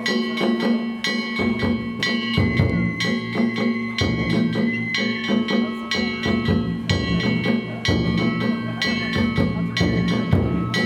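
Danjiri festival music (narimono): taiko drums struck in a fast, steady beat, with ringing metal tones held over it.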